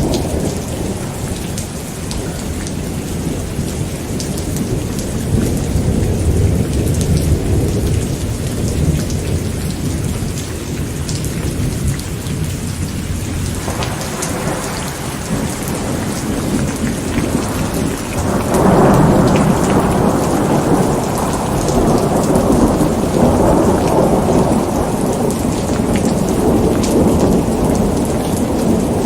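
Steady rain with rolling thunder. About two-thirds of the way through a louder, longer thunder rumble sets in and keeps going.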